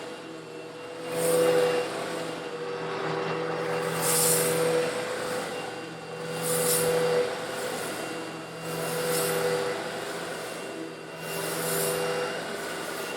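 Eureka vacuum cleaner running with a steady motor hum while it sucks up coarse stone granules. The hiss and rattle of the granules swells and fades with each pass, about every two and a half seconds.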